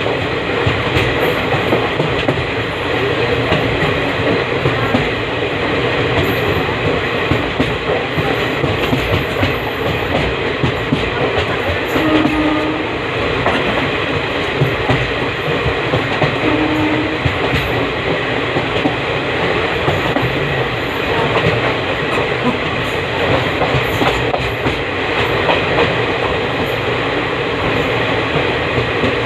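Express train's passenger coaches running at speed, heard from on board: a steady loud rumble of wheels on rail with clatter over the track. Two brief low tones sound about 12 and 17 seconds in.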